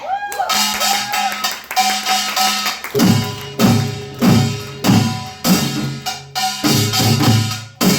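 Samulnori percussion ensemble of gongs and drums (kkwaenggwari, jing, janggu, buk) playing a rhythmic pattern, with metallic ringing over quick strokes. About three seconds in, heavy drum strokes come in on a steady beat.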